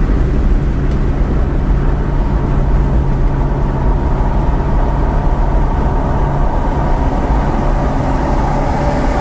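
Steady road and engine noise of a car driving, with a low hum.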